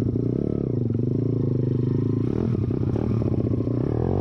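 YCF pit bike's single-cylinder four-stroke engine idling with small dips and rises in pitch, through an exhaust with the spark arrestor taken out.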